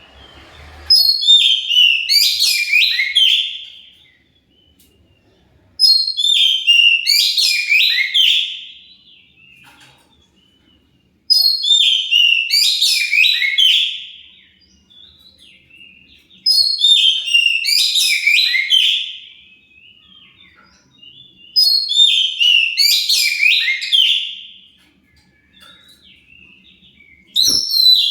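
Oriental magpie-robin (kacer) song used as a lure: the same loud, rich whistled phrase of about three seconds repeated six times, about every five seconds, with short pauses between.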